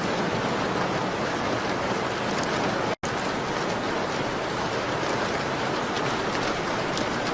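Steady rain on a window: a dense even hiss with faint light ticks of drops, broken by a split-second gap of silence about three seconds in.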